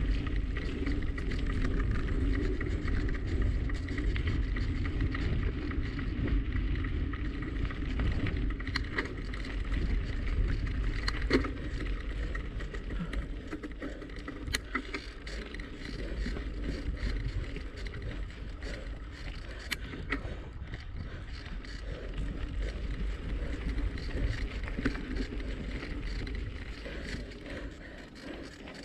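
A bicycle in motion: a steady rumble of wind on the microphone and tyres rolling on pavement, with a few sharp clicks and rattles scattered through it.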